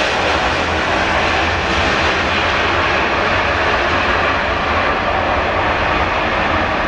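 Jet airliner passing close by, its engines making a loud, steady rushing noise. The highest hiss eases a couple of seconds in.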